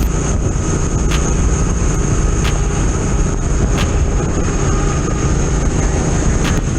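A vehicle engine running steadily under a dense rush of road and wind noise, with a thin high whine over it and a few faint clicks.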